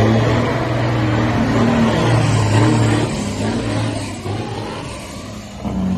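Truck engine running under power, growing fainter over the last few seconds.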